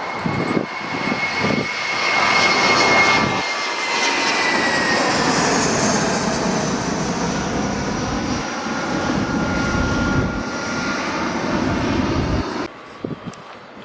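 Jet airliner's engines at takeoff thrust: a loud, steady rush with a high whine that slides down in pitch as the aircraft passes. The sound drops off abruptly near the end.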